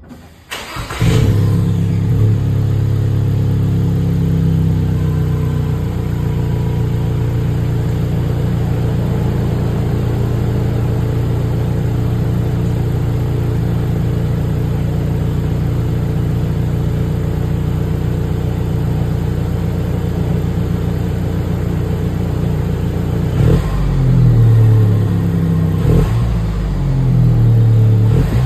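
Toyota Prado's T24A-FTS 2.4-litre turbocharged four-cylinder petrol engine starting about a second in. It idles a little high, settles to a steady idle through the exhaust, and is revved a few times over the last five seconds.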